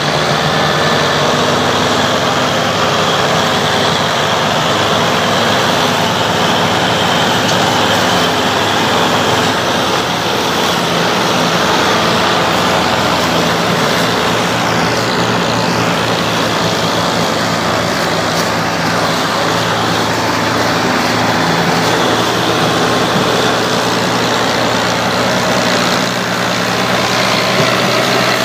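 Tractor engine running loud and steady, its low hum holding near one pitch throughout.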